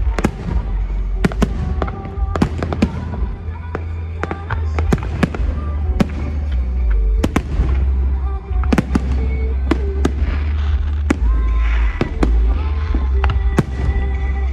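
Aerial fireworks display: a rapid, irregular run of sharp cracks and bangs over a continuous deep rumble of booms. Music plays underneath.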